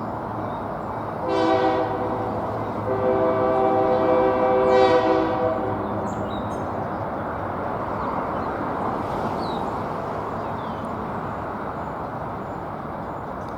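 Diesel locomotive air horn sounding a chord: a long blast dies away just after the start, then a short blast about a second in and a longer one about three seconds in, the close of a grade-crossing signal. After that the train rumbles past steadily, slowly fading.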